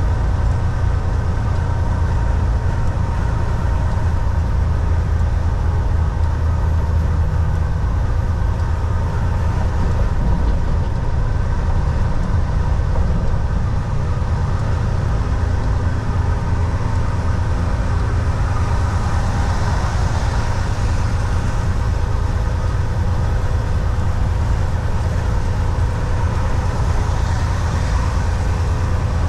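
Volvo VNL 760 semi truck's diesel engine running at a steady cruise inside the cab, a deep low rumble with a steady engine drone and road noise. A brief rise in hiss comes about two-thirds through and again near the end.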